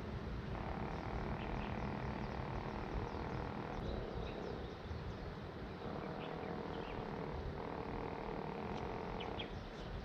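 Short, high bird chirps every few seconds over a steady low outdoor rumble.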